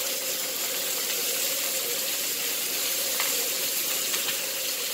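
Stuffed chicken breasts and loose stuffing sizzling steadily in a hot cast-iron skillet, with a spoon stirring through the pan.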